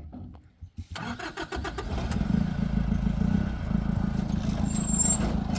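A vehicle's engine is cranked by the starter for about a second, catches about two seconds in, and then runs steadily.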